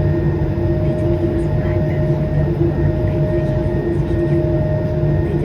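Airbus A220-300 cabin noise: the steady rumble and rush of its Pratt & Whitney PW1500G geared turbofans, with several steady hums running through it.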